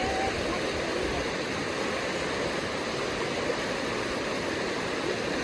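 Small stream flowing steadily, a continuous sound of running water.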